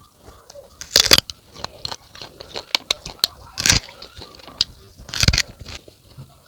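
A person biting into and chewing crisp unripe fruit: three loud crunching bites, about a second in, near the middle and about five seconds in, with wet chewing clicks between.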